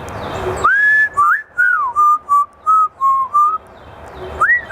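African grey parrot whistling a tune: after a brief hiss, a rising whistle held about half a second, then a quick run of short whistled notes, and another rising-and-falling whistle near the end.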